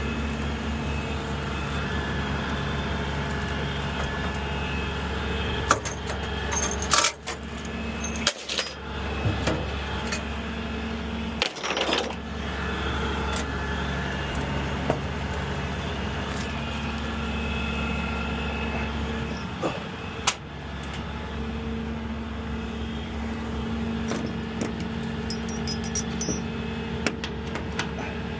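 Tow truck engine running steadily, with scattered metallic clinks and knocks.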